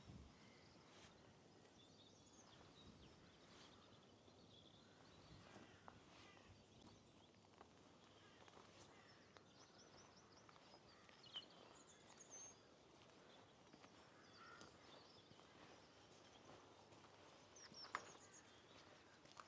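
Faint scattered bird calls and chirps, including a quick trill about halfway through, over a very quiet background hiss, with a couple of brief faint clicks.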